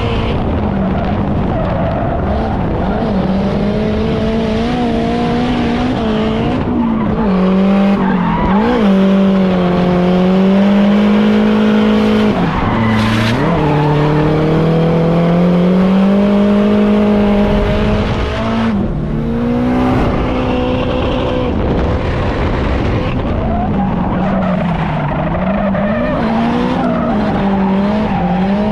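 Drift car's engine running hard at high revs, its pitch swinging up and down and dropping sharply a few times as the throttle is lifted, with tyres skidding.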